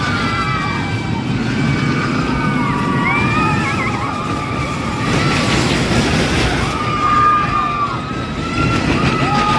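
Roller coaster ride: several riders screaming in long, overlapping held cries that drop off at their ends, over a steady rush of wind and the rumble of the train on its track.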